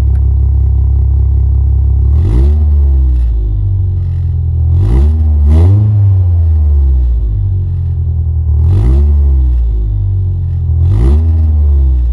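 Volvo car engine idling shortly after a cold start following three weeks standing, with about five short throttle blips that rise and fall in pitch.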